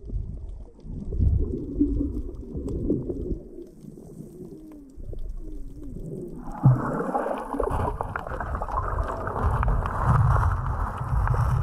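Muffled sloshing and gurgling of seawater, as heard while swimming and looking for fish. About six seconds in it changes abruptly to a louder, steady rushing of water.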